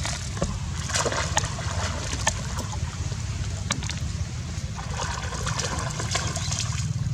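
Water splashing and trickling, with patches of splashing about a second in and again past the middle, scattered sharp clicks, and a steady low rumble underneath.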